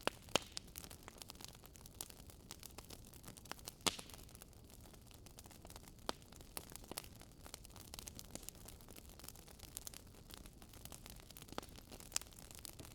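Burning firewood crackling in a fireplace: irregular sharp pops and snaps over a low steady hiss. The loudest pops come about half a second in and at about four seconds.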